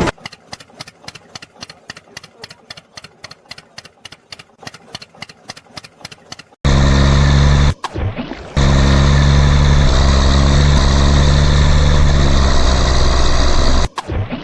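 Faint regular ticking, about five a second. About six and a half seconds in, a loud, steady, deep-pitched engine starts running and cuts out briefly twice.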